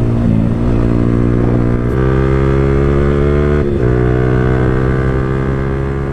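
Yamaha R15 V4's single-cylinder engine through an Akrapovic full-system exhaust, running hard at high revs with a steady exhaust note. The note breaks briefly and steps in pitch about two seconds in and again about three and a half seconds in.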